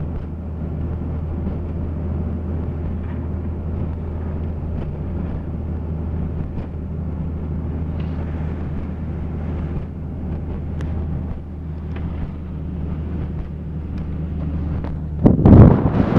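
1995 Jeep Grand Cherokee's 4.0 straight-six engine and tyres making a steady low drone, heard from inside the cabin while driving. A little after 15 s, loud wind buffeting on the microphone cuts in suddenly.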